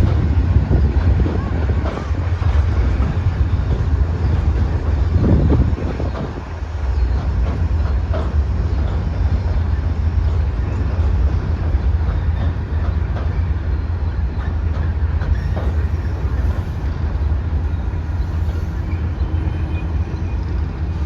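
Amtrak passenger train rolling past, a steady low rumble of wheels on the rails with swells in loudness near the start and about five seconds in.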